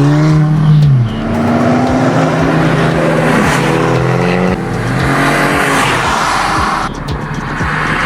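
Sports car engine revving and accelerating, its pitch climbing and dropping several times as it goes up through the revs and shifts.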